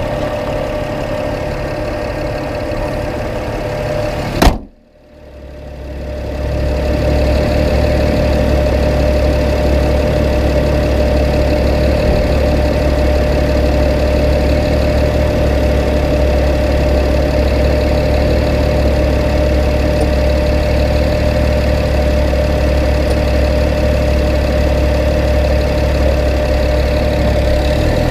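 BMW 335is N54 twin-turbo straight-six running steadily, with a steady drone and a deep rumble. A single sharp knock sounds about four and a half seconds in, after which the sound briefly dips and comes back with a heavier low rumble.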